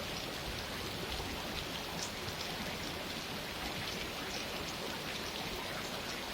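Steady daytime rain falling, a constant hiss with many separate drop hits scattered through it.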